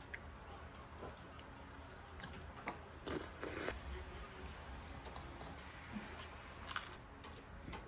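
Faint eating sounds: quiet chewing with a few short clicks and soft wet bursts over a low steady hum.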